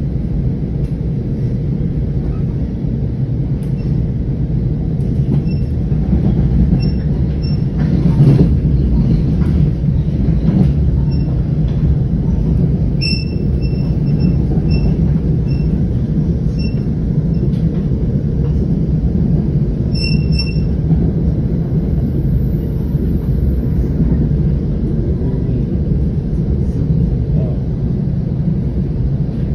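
Passenger railcar rolling along the track, heard from inside the coach: a steady low rumble of wheels and running gear, swelling briefly with a knock about a quarter of the way in, with short high squeaks here and there.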